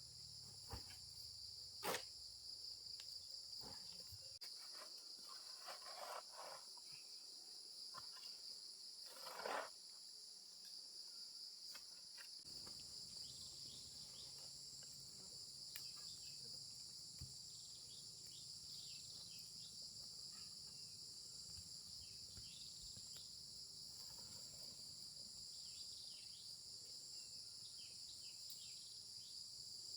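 A steady, high-pitched chorus of insects chirring in the forest, with a few scattered knocks and scrapes, the loudest about nine seconds in.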